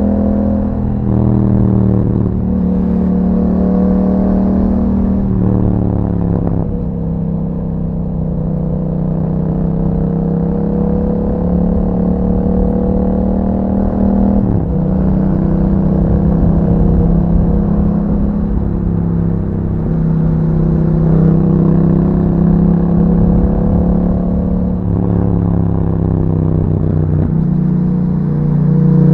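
Yamaha MT-07's parallel-twin engine running through an aftermarket Akrapovic exhaust while riding, the revs climbing slowly in each gear and then stepping or falling away several times with gear changes and throttle changes.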